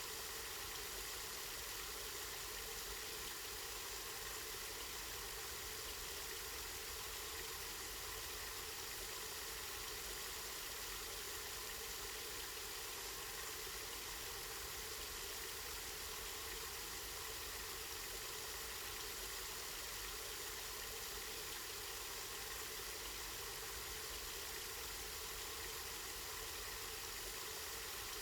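Spring water running and splashing steadily, an even, unchanging rush.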